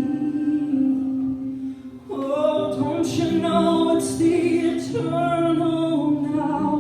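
Live worship singing: voices holding long sung notes, with a brief dip about two seconds in before the song swells again.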